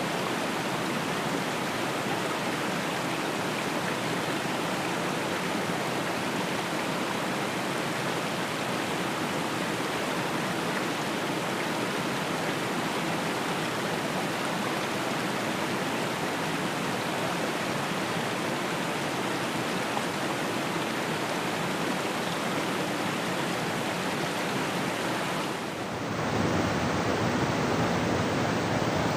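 River water rushing steadily. About 26 seconds in it cuts to a slightly louder rush with more low rumble and less hiss.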